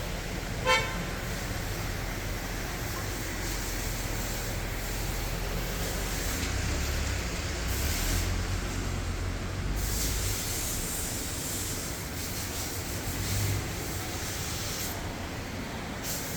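A single short beep about a second in, over a steady low rumble and hiss.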